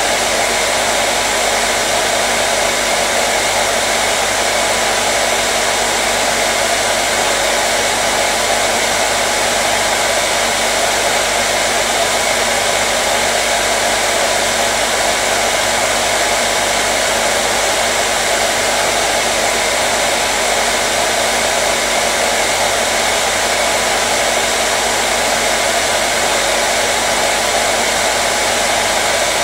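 Hair dryer running steadily: a constant, loud rush of blown air with a faint motor hum underneath, unchanging throughout.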